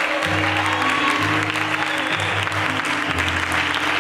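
Congregation applauding, with instrumental music under it: held low bass notes that change about every second and a steady sustained chord above.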